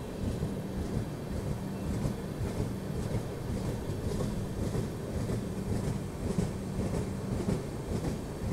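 Garib Rath express train's LHB coaches rolling slowly along the track: a steady rumble of wheels and running gear with a constant low hum and faint regular ticking.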